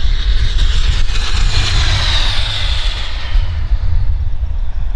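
Turbine engine of a radio-controlled scale T-33 jet whining as it passes on its landing approach. The whine swells to a peak about two seconds in, then fades and drops a little in pitch, over a steady low rumble.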